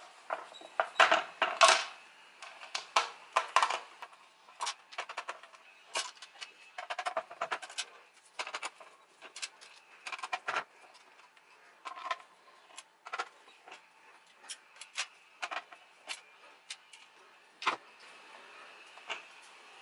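Irregular clicking and clattering of small plastic and metal parts being handled while an electronic drum pad is taken apart, a dense run of clatters at first, then scattered single clicks, with one sharp knock near the end.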